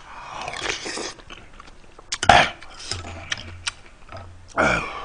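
Close-miked chewing and mouth noises of a person eating, with small clicks throughout. About two seconds in there is one loud, sharp mouth sound, and near the end a short grunt that falls in pitch.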